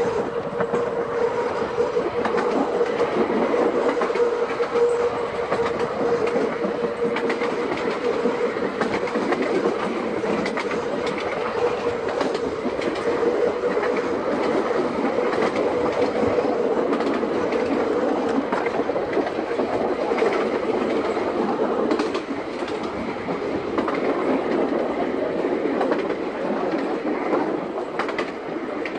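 Seaton Tramway electric tram running along the track, with a steady whine and scattered clicks of the wheels over the rails. The whine stops about 22 seconds in and the running noise drops a little.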